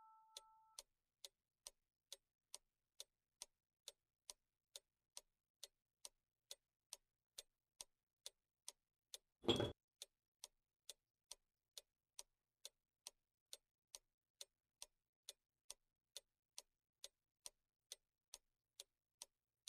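Clock ticking steadily and faintly, about two ticks a second. About halfway through there is a single much louder knock.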